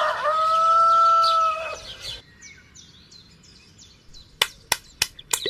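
A long drawn-out bird call that holds one pitch and fades about two seconds in, followed by a run of short, high chirps. Several sharp clicks come in quick succession near the end.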